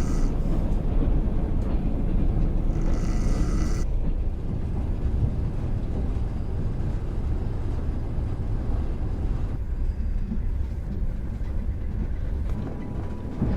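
Passenger train running along the track, a steady low rumble, with two short hissing sounds in the first few seconds.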